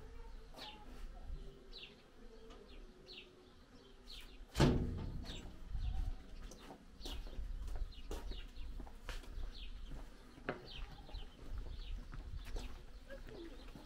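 Small birds chirping in short, scattered calls, with one loud sharp knock about four and a half seconds in.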